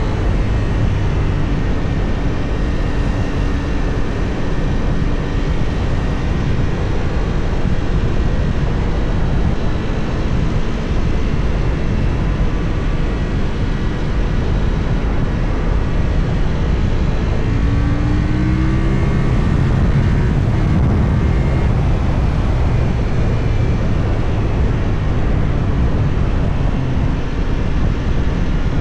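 Benelli Tornado 550's 554 cc parallel-twin engine running on the road, under a steady rush of wind noise on the action camera. The engine note rises about two-thirds of the way through as the bike accelerates.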